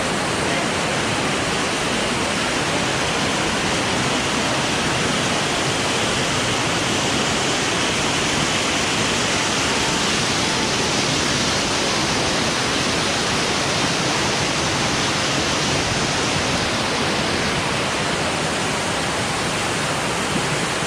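Waterfall water rushing and splashing close by, a steady, loud, even noise.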